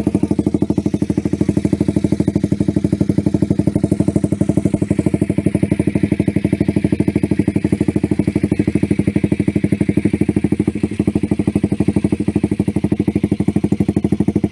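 Motorcycle engine idling steadily through an aftermarket SC Project CRT Titan–style racing silencer, a loud, even stream of rapid exhaust pulses with no revving.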